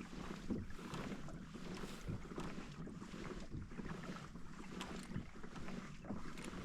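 Kayak moving across the water under paddle: soft, even paddle strokes and water swishing about every two-thirds of a second, with wind noise on the microphone.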